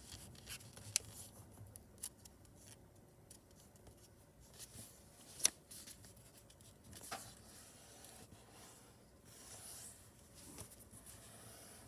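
A sheet of printer paper being folded and creased by hand: faint rustling with a few short, sharp crinkles, the loudest about five and a half seconds in.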